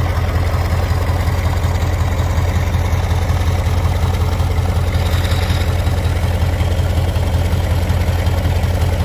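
Turbocharged MAZ V8 diesel engine in a T-150 tractor idling steadily, with a deep, even hum and no change in revs.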